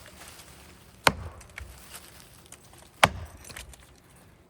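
Axe chopping into a maple trunk: two sharp strikes about two seconds apart, short choked-up strokes nibbling wood out of the cut.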